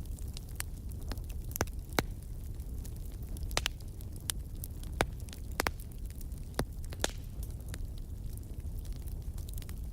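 Campfire crackling: a steady low rumble of burning with frequent sharp pops and snaps at irregular intervals, a few of them louder, about two and five seconds in.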